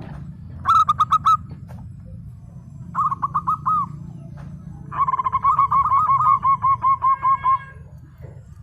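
Zebra dove (perkutut) cooing in three phrases of quick staccato notes: two short runs, then a longer rolling run of about fifteen notes. A low steady hum sits underneath.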